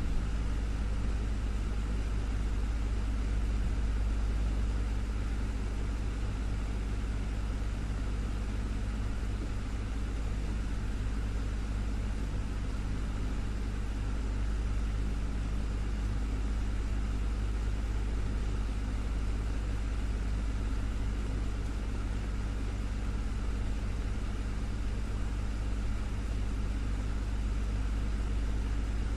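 Desktop fan running steadily: a constant low hum with a soft airy whoosh and a few steady tones over it.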